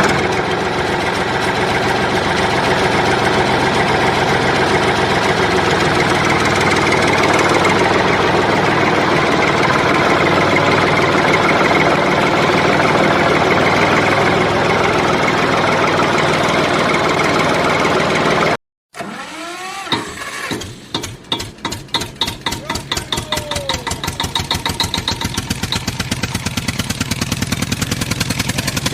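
Tractor-style diesel engine sound running steadily and loudly. It cuts out for a moment about 19 seconds in, then returns as an even, rapid chugging idle of roughly five beats a second.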